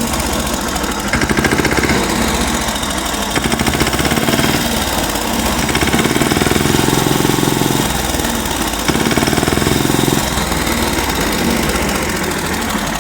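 A vehicle engine running with a fast, even chugging rhythm, getting a little louder in a couple of stretches in the middle.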